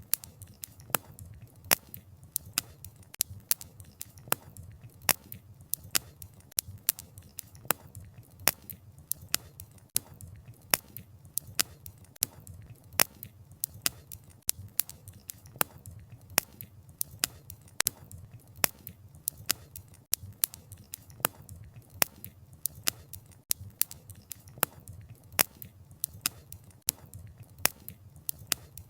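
Wood fire crackling: irregular sharp pops and snaps of burning logs, several a second, over a low steady rumble of the flames.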